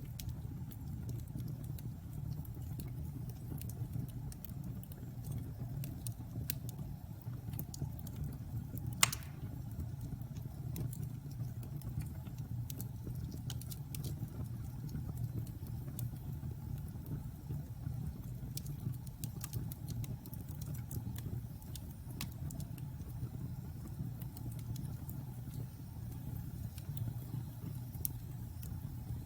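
Wood fire burning in a fireplace: a steady low rumble of flames with scattered small crackles and pops, and one loud pop about nine seconds in.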